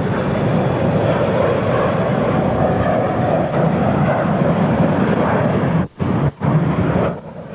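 Airliner passing close by, a loud steady engine noise. The sound cuts out briefly twice near the end.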